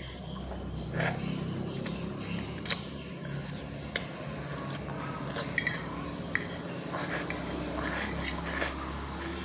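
Eating utensils clinking and scraping against a dish while Indomie instant noodles are eaten, a scattered series of sharp clicks over a steady low hum.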